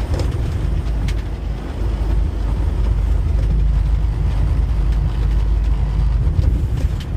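Steady low rumble inside a semi-truck's cab driving in high wind: engine, road and wind noise running together, with a few faint ticks.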